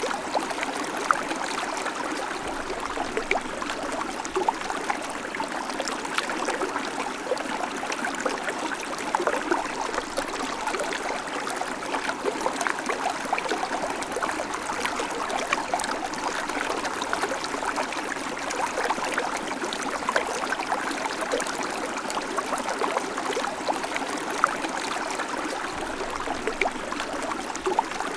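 A shallow creek babbling steadily, with small splashes and trickles over stones.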